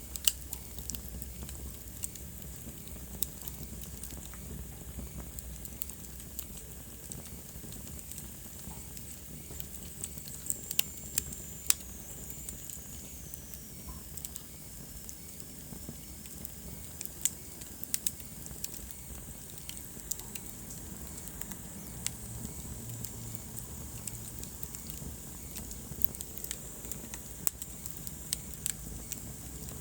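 Wood fire burning in a fireplace, crackling with irregular sharp pops over a steady low rumble. A faint high whistle slides down in pitch about ten seconds in.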